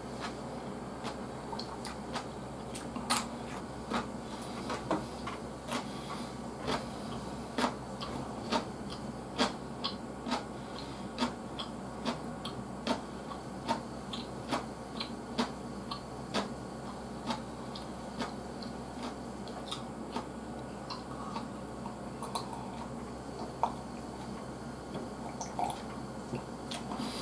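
Close-miked eating sounds: a run of short, wet mouth clicks and smacks from chewing, about one or two a second, thinning out in the last third, over a low steady hum.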